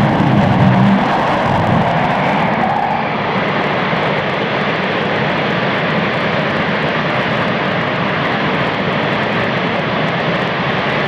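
RS-25 liquid-fuelled rocket engine on a test stand: a loud, steady rushing roar. About three seconds in, the highest hiss drops away and the roar carries on a little duller.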